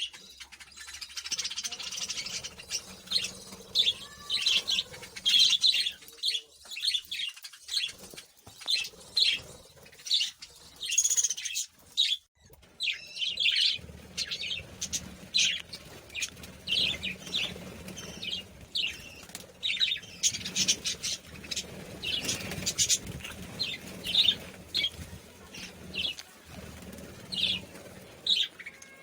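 Small birds chirping: many short, high chirps in quick succession, with a few brief sharp sounds mixed in.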